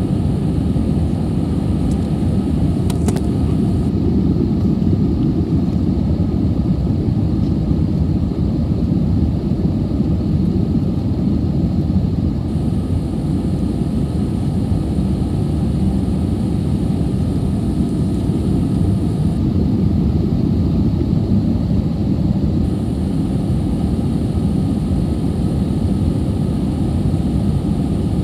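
Steady, loud engine and airflow noise of an Airbus A320 heard from inside the passenger cabin, a low, even rumble that holds without change.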